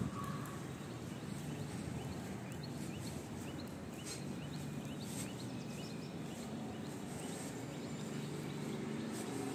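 Steady background ambience with small birds chirping in short rising notes, a string of them in the first half, and a few faint clicks.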